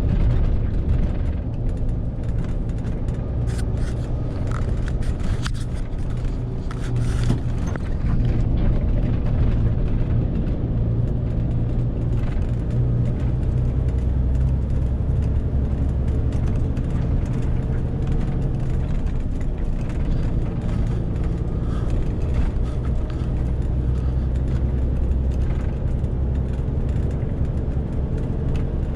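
Renault T520 truck's diesel engine running steadily, pulling a 40-tonne load, a continuous low drone, with a few sharp clicks a few seconds in.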